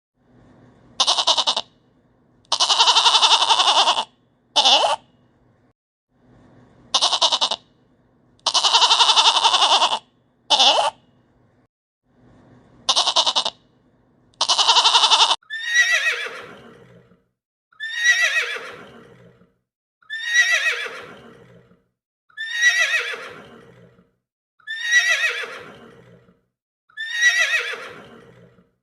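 A horse whinnying the same falling neigh over and over, about every two and a half seconds, through the second half. Before that, harsh animal calls come in groups, each a long call followed by a short one.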